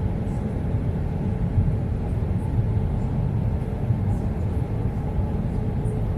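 Steady low rumble of engine and airflow noise inside an Airbus A320's passenger cabin in flight, with a faint steady hum.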